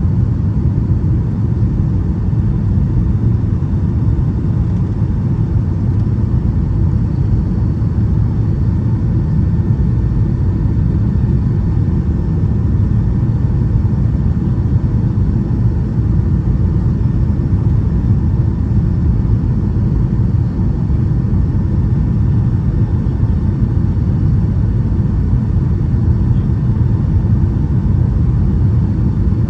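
Boeing 757-200 in flight, heard from inside the passenger cabin: a steady, loud rumble of engines and airflow, with faint steady whining tones above it.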